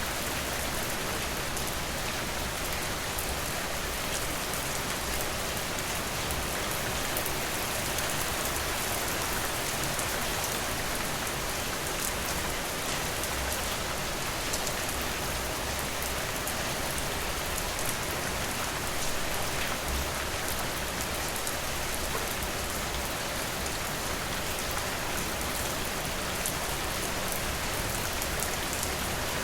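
Steady rain falling, with a dense patter of small drops.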